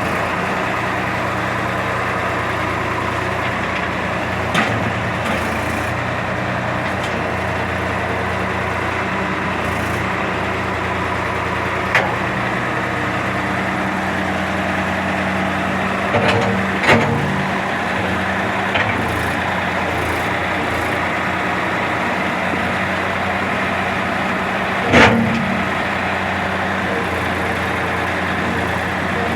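Tractor engine running steadily, with a few sharp knocks or clanks scattered through, the loudest one late on.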